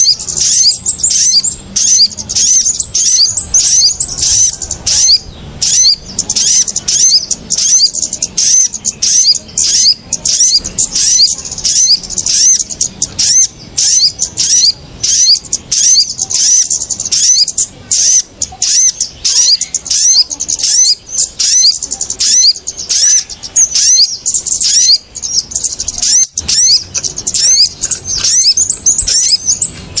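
Bird-lure (pikat) recording of the busy calls of small birds, kemade and sogok ontong: quick high chirps repeated several times a second without a break, meant to draw the birds in.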